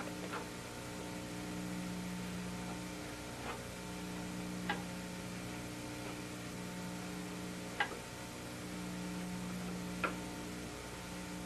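Steady electrical hum with three faint clicks a few seconds apart.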